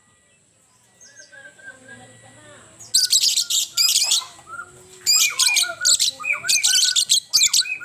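Songbird singing: softer whistled notes, broken by three loud bursts of rapid, very high-pitched chattering trills.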